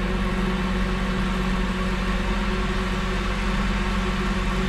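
Truck engine running at a steady speed: an even drone that holds one pitch without revving up or down.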